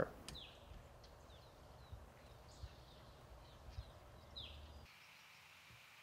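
Faint, short chip calls of a small bird, repeated irregularly over the first four seconds, each a quick downward note, over a faint low background rumble that stops abruptly about five seconds in.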